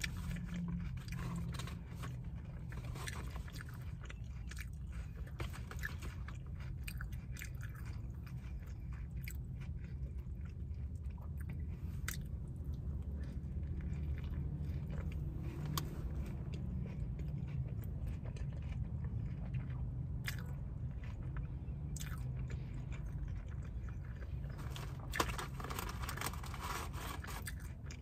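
Close-miked chewing and biting of a sausage-and-egg burger, with wet mouth clicks and small crunches, over a steady low hum. A sharper click stands out near the end.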